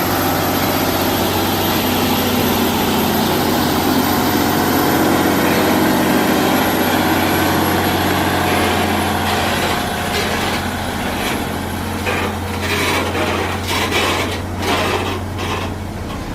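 Heavy truck's diesel engine running steadily under load, with a run of irregular knocks and clunks in the last several seconds.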